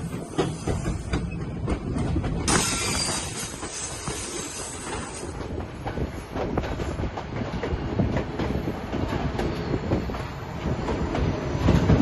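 White Pass & Yukon Route narrow-gauge train running along the track: a steady rumble with rapid clicks of the wheels over the rails, growing louder near the end.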